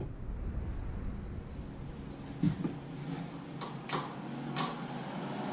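A few faint, light metallic clicks and taps as an adjustable wrench is set and fitted onto an e-bike's axle nut.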